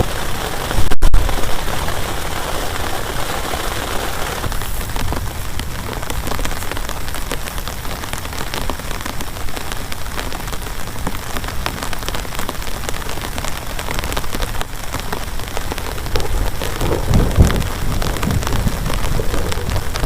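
Heavy rain falling steadily on a plastic tarp, a dense patter of drop ticks, with a short loud burst about a second in. A low rumble of thunder swells near the end.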